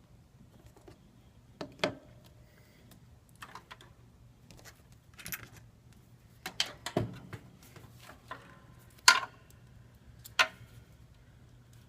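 Irregular clicks and taps of small phone parts and tools being handled while a Samsung Galaxy S3 is put back together. The loudest is a sharp click about nine seconds in, followed by another a second later.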